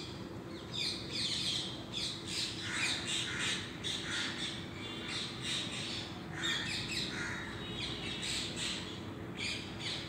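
Birds calling with a run of short, sharp chirps and squawks, one after another throughout, some bending up or down in pitch, over a faint steady low hum.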